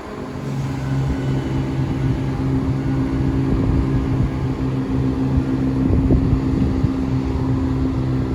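Diesel multiple unit's engines running with a steady low drone, the sound growing slightly louder as the train gets under way from the platform. Some wind on the microphone.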